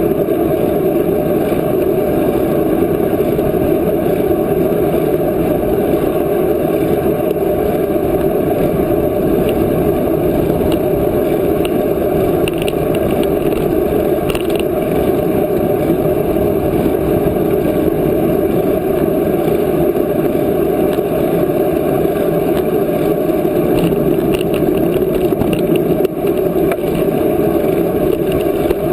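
Steady rush of wind and road noise on the microphone of a camera carried on a moving bicycle.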